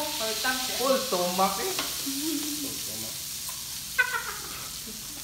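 Steady sizzling hiss of food frying on a tabletop grill, with one sharp click about four seconds in.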